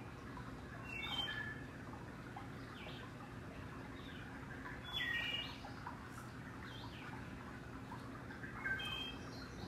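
A bird calling three times, about four seconds apart, each call a short group of high whistled notes stepping down in pitch, over a faint low steady hum.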